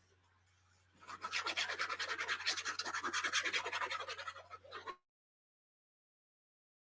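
Rapid back-and-forth scratching or rubbing on paper, several strokes a second, starting about a second in and lasting about four seconds before it cuts off suddenly.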